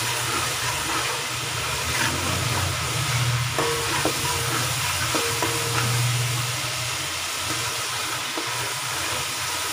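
Ginger-garlic paste and browned onions sizzling steadily in hot oil in a metal pot, with a metal spatula stirring and scraping against the pot now and then. A low steady hum runs underneath.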